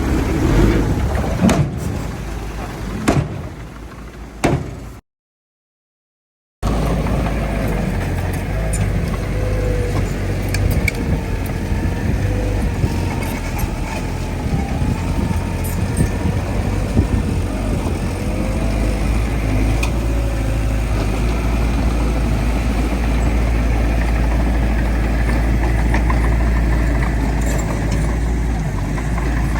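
Heavy diesel earthmoving machinery running steadily with a deep low rumble and a faint wavering whine above it. It follows a few seconds of gusty noise with knocks, which break off into a second and a half of silence.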